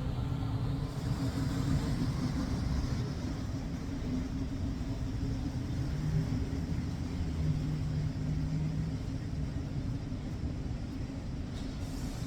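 Steady low rumble of city street traffic, with a vehicle engine's hum standing out for a few seconds after the middle.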